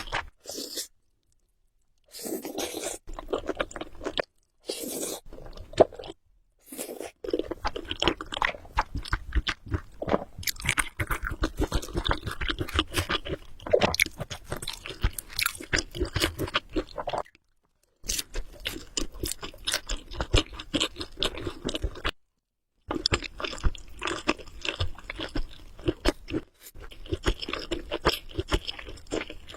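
Close-miked chewing of Samyang Buldak carbonara noodles, with a dense run of quick mouth clicks and smacks. It is broken several times by short cuts to dead silence.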